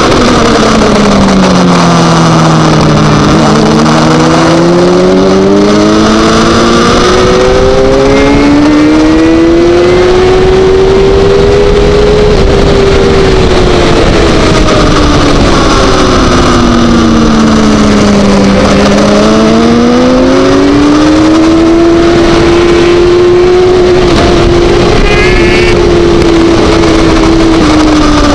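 Onboard sound of a racing sportbike's engine at speed, with wind rush on the microphone. The engine note falls twice as the bike slows for a corner and climbs again each time as it accelerates out, then holds high near the end.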